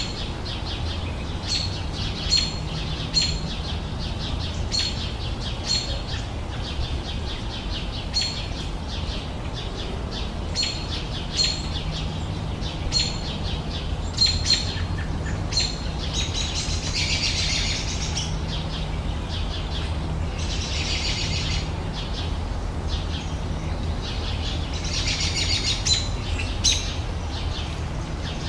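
Garden songbirds singing: one bird repeats a short, high call about every second and a half, and another gives three longer trills in the second half. A steady low rumble runs underneath.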